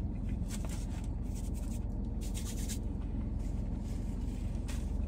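A man chewing a mouthful of grilled chicken flatbread, with scattered short, soft mouth noises over a steady low hum.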